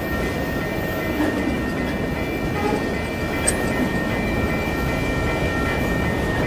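Enclosed autorack freight cars rolling past: the steady rumble of steel wheels on the rails, with steady high-pitched ringing tones over it and one sharp click about three and a half seconds in.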